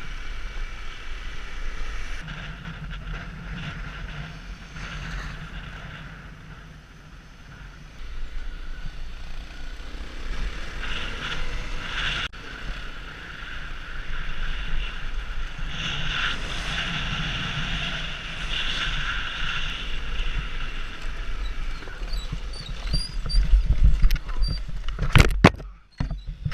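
Honda CRF250L single-cylinder dual-sport motorcycle engine running on the move, with wind buffeting the microphone as a steady low rumble. A few loud knocks come near the end.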